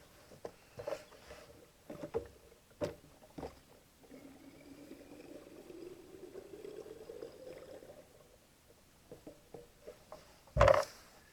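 Fuel being poured into a Husqvarna 455 Rancher chainsaw's tank for about four seconds, the pitch rising as the tank fills, between light clicks of handling the cap and can. A single loud knock near the end.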